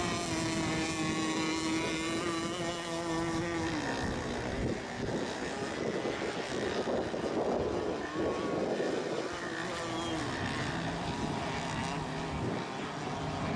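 Radio-controlled racing boat engines running at high revs, one holding a steady high-pitched whine that falls away about four seconds in, then a rougher, noisier engine sound for the rest.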